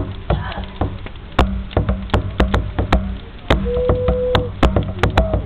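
A drum struck in quick, irregular hits over a low steady hum. About four seconds in comes a single held hoot, like a hand-cupped owl call.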